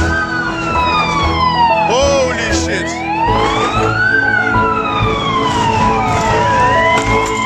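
Emergency vehicle sirens wailing, each rising and falling slowly over a few seconds, two of them out of step. Music with held notes and a low pulse plays underneath.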